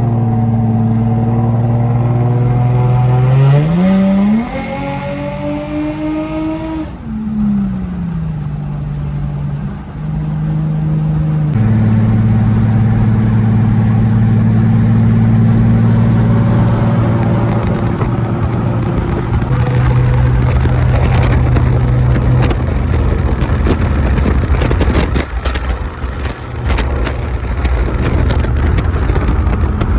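A car engine running with a steady hum. About three and a half seconds in it revs up, holds the higher pitch for a few seconds, then drops back. In the second half the steady note gives way to a rougher, noisier sound.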